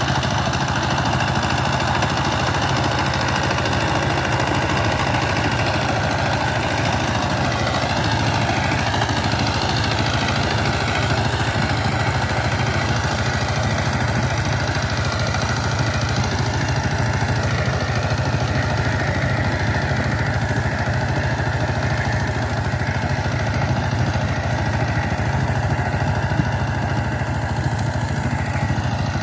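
Power tiller's diesel engine running steadily at idle, an even, rapid beat with no change in speed.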